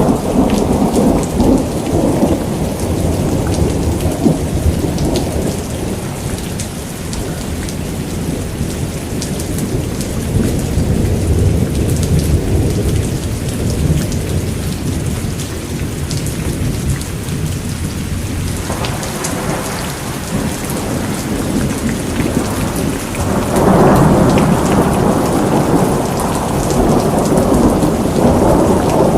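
Steady heavy rain with low rolling thunder rumbling under it, the rumble swelling near the start and again in the last few seconds.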